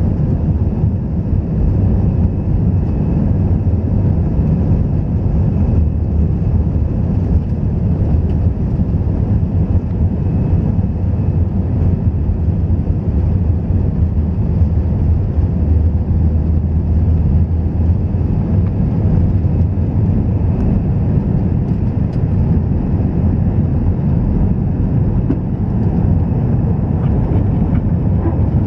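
Airbus A321 cabin noise: the engines and airflow heard from inside the cabin as a loud, steady low rumble.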